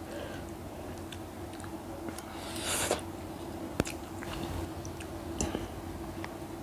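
Close mouth sounds of a person chewing Maggi instant noodles, with small scattered clicks, a brief hiss about two and a half seconds in and one sharp tap just before four seconds.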